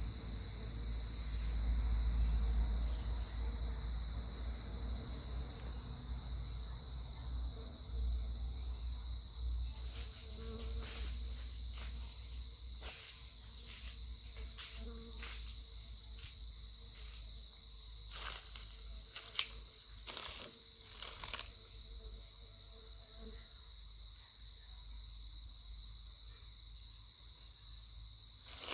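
Steady high-pitched insect chorus, likely crickets, with a scattering of short clicks and taps about a third of the way in to three quarters through.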